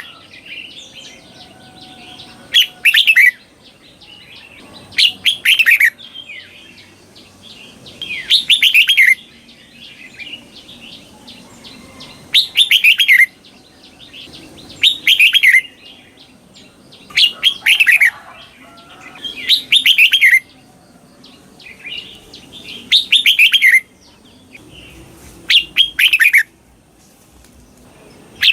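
Red-whiskered bulbul singing the same short whistled phrase over and over, about every two and a half seconds, each phrase doubled into two quick falling parts. Softer chirping fills the gaps between the phrases.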